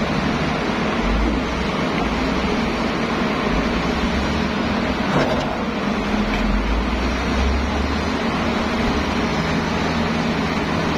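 Heavy diesel construction machinery, a crawler bulldozer and tracked excavator, running steadily at work with a low engine drone. There is a single knock about five seconds in.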